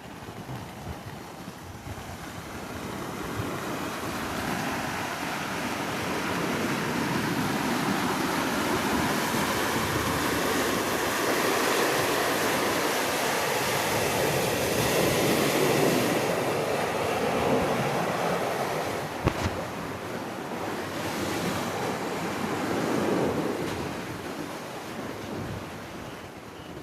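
Rushing floodwater: a steady rushing noise that swells louder over the first several seconds, eases, and swells again near the end, with one sharp knock about two-thirds of the way through.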